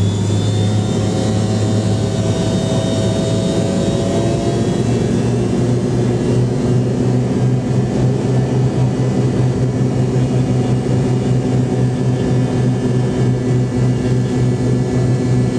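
Rear-mounted turbofan engines of a McDonnell Douglas MD-88 heard from a cabin seat beside them: a loud, steady low drone with thin whining tones over it. The whines fade about five seconds in and the drone settles to a slightly different steady note.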